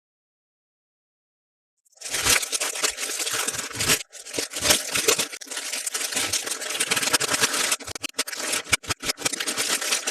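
Plastic toy packaging being crinkled and handled: a dense crackling rustle full of small clicks that starts about two seconds in and stops just before the end.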